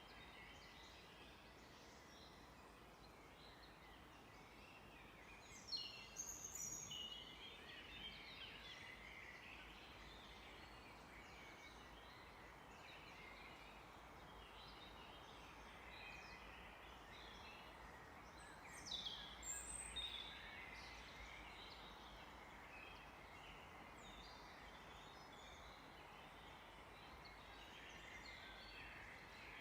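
Several songbirds singing and calling faintly over a soft steady hiss of forest ambience, with two louder, brief flurries of high song about six seconds in and again about nineteen seconds in.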